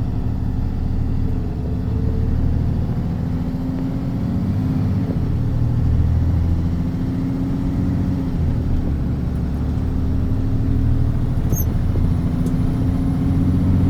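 Motor vehicle engine running with a steady low hum whose pitch rises and falls slightly several times, heard as if from inside or beside a vehicle in slow traffic. A couple of faint high ticks come near the end.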